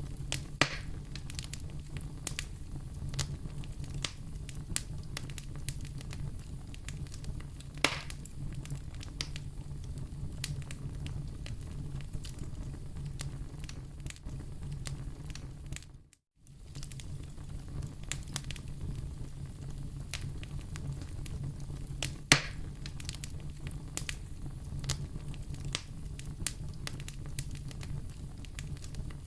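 Wood fire in a fireplace crackling steadily, with a continuous low rumble, many small snaps and a few louder pops. It cuts out to silence for a moment about halfway through.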